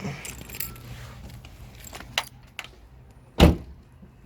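Keys jangling with a few light clicks and rattles, then one loud thump about three and a half seconds in.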